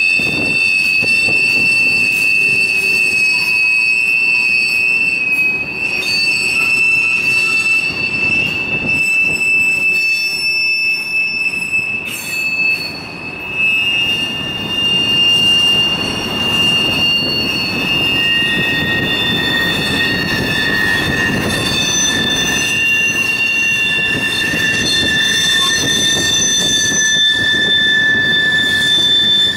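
Empty open-top hopper cars of a long freight train rolling past, the wheels squealing in steady high-pitched tones over the rumble and clatter of wheels on rail. The squeal changes pitch partway through as different cars come by.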